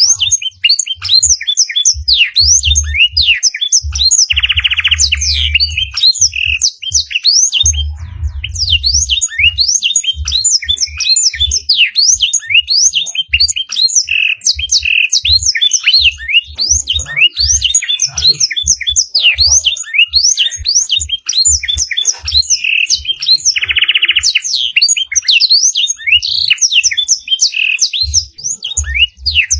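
Canary singing a long, unbroken, fast song of sweeping chirps and whistles full of blackthroat (black-throated canary) phrases. A buzzy rolling trill comes twice, about four seconds in and again about six seconds before the end.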